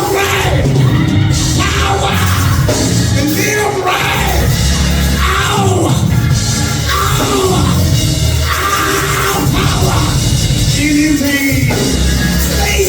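A preacher's voice chanting and yelling in sung, arching phrases, in the whooping style of a sermon's climax, over loud church band music with a heavy low accompaniment.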